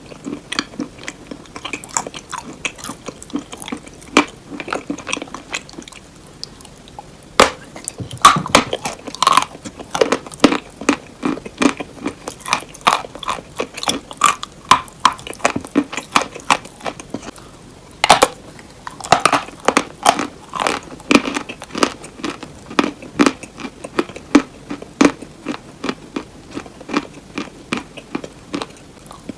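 Close-up mouth sounds of biting into and chewing crunchy hard cheese: rapid crackling crunches in a chewing rhythm. After short pauses there are two sharp bites, about seven seconds in and about eighteen seconds in, each followed by a fresh run of crunching.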